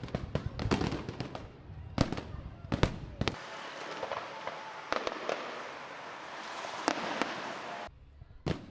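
Fireworks going off: a quick series of sharp bangs, then several seconds of dense crackling that stops abruptly, and one more bang near the end.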